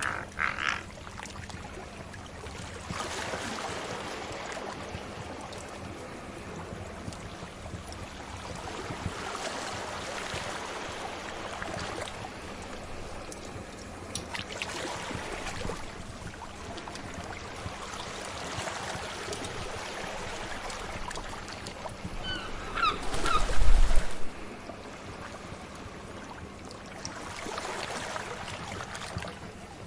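Sea waves washing ashore in slow swells every five or six seconds, with a fire crackling faintly underneath. About 23 seconds in there is a louder surge with a deep thud and a few short high chirps.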